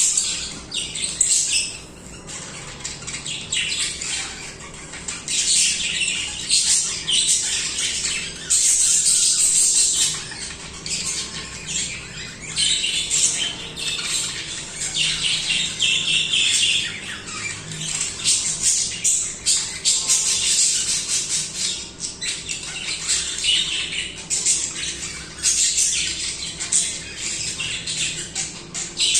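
Several budgerigars chattering and warbling continuously, a dense mix of chirps, squawks and trills, louder in stretches.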